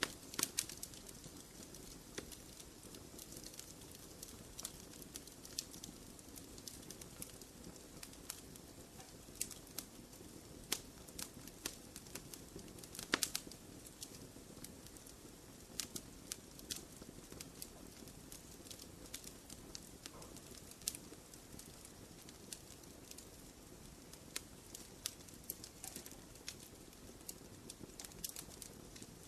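Wood fire in a fireplace crackling, with irregular sharp pops and snaps over a low steady rumble of flames; the loudest pop comes about halfway through.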